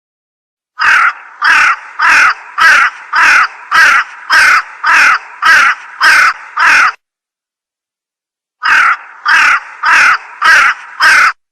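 Crow cawing, a stock sound effect: a run of about eleven harsh caws at roughly two a second, a short pause, then five more.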